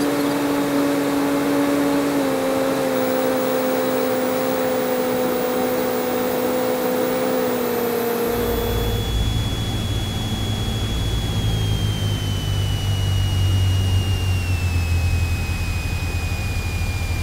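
Cessna 172's piston engine droning in the cabin, its pitch stepping down a few times as power is reduced for landing. About eight seconds in, the sound changes abruptly to a heavy low rumble with a thin high whine that slowly falls in pitch.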